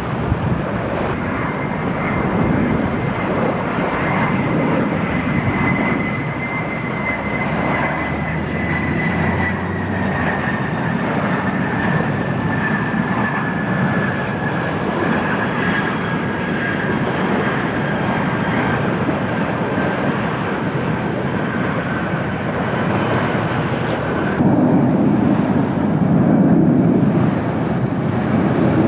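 Jet airliner engines running, with a thin whine that slowly falls in pitch over a broad roar. The whine stops abruptly about 24 seconds in, and a heavier low rumble follows.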